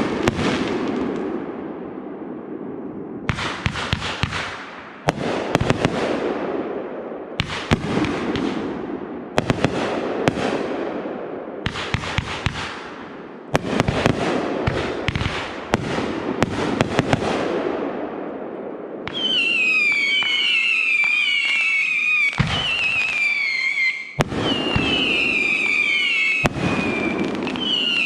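Aerial fireworks bursting one after another, each sharp bang followed by a long fading rumble and crackle. From about two-thirds of the way through, a run of high whistles, each falling in pitch, sounds over the bangs.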